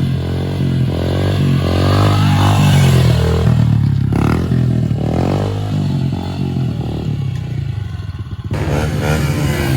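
Small pit bike engine running, its pitch rising and falling as it revs, with some clatter.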